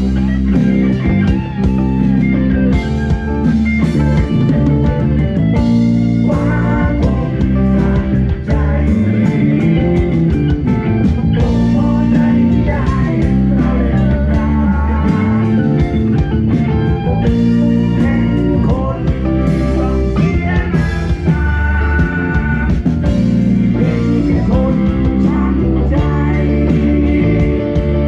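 Live band music with electric guitar playing over a steady bass and drums.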